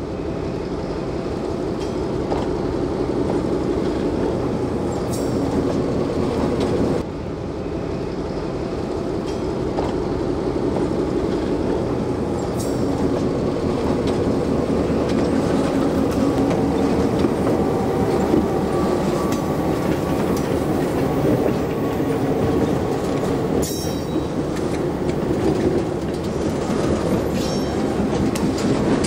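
EMD GP11 diesel locomotive passing close by with its engine running, followed by a string of covered hopper cars whose steel wheels rumble and clack steadily over the rail joints, with a few sharp clicks. The sound drops briefly at a cut about seven seconds in.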